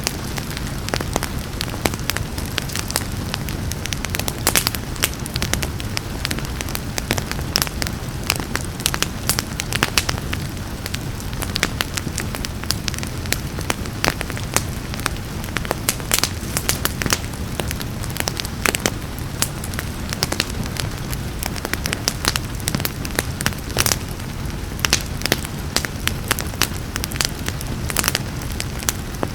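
Wood fire crackling and popping in irregular sharp snaps over a steady low rumble of flames, with a soft hiss of rain underneath.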